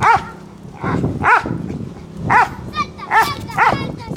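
A dog barking in short, sharp barks, five in all, the last two coming close together.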